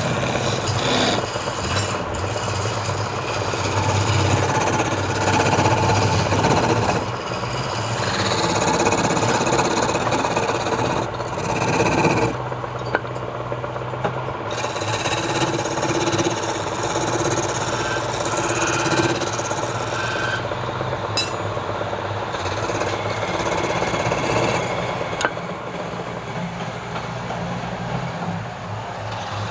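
Wood lathe running with a steady motor hum while a turning tool cuts the spinning wood, a rough scraping noise that grows and eases as the cut goes on.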